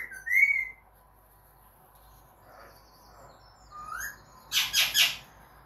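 Pet bird whistling, a mimicked sound it has been taught: a rising whistle and a short higher whistle at the start, a softer rising whistle about four seconds in, then a quick run of loud, harsh calls near the end.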